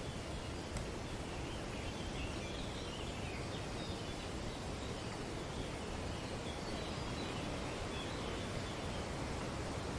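Steady wind rustling through tree foliage, with faint, high bird chatter through much of it.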